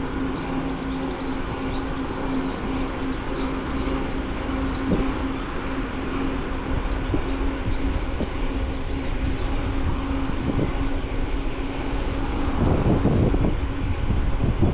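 Bicycle ride noise on a bike-mounted camera: a steady rumble of tyres and wind on the microphone with a constant hum, small bird chirps above it, and a louder rough patch near the end.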